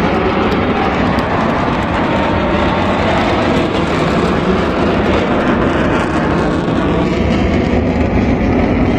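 Aircraft flying past at an air show, its engine noise loud and steady, with the highest part of the sound thinning out after about six seconds.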